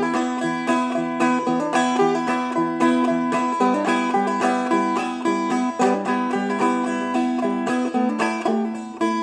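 Seagull Merlin, a small four-string dulcimer-style instrument, played clawhammer style: a blues tune picked out in quick plucked notes over a ringing drone string.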